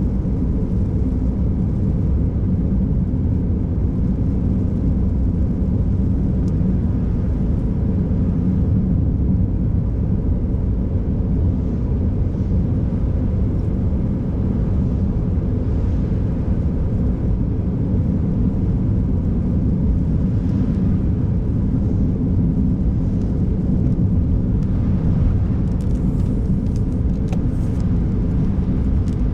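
A car driving at steady speed: even, low rumble of tyres on the road and the engine, with no change in pace.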